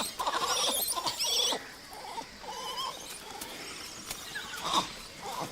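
Temple langurs calling: a quick run of short, squealing cries in the first second and a half, then fainter scattered cries.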